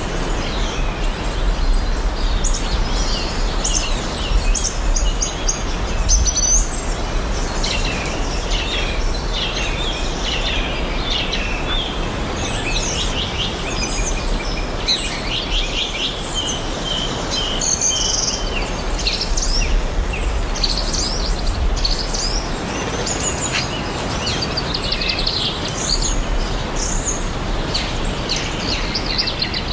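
Several songbirds singing and chirping over one another in quick, overlapping phrases, over a steady even hush with a low rumble underneath.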